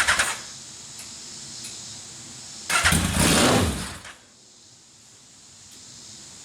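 Legends car's carbureted motorcycle-type engine: a running sound cuts out just after the start, and about three seconds in comes a short starting attempt, about a second and a half long, that does not catch. The engine will not stay running without throttle input.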